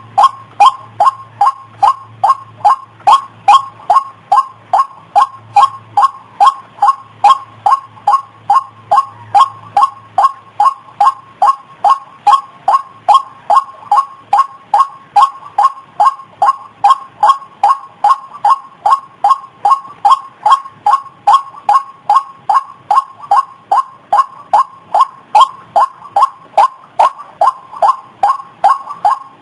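White-breasted waterhen (ruak-ruak) calling: a steady, monotonous series of short, loud 'ruak' notes, about two a second.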